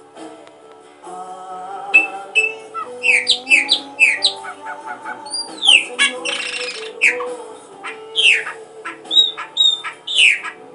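Bird calls, many short, sharp chirps that sweep downward in pitch, over background music with sustained notes. A brief hissing burst comes about six seconds in.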